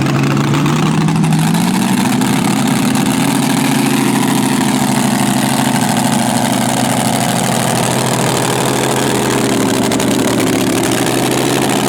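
Big-block pulling tractor engine running through open zoomie headers. Its pitch rises over the first two seconds and then holds fairly steady at a fast idle.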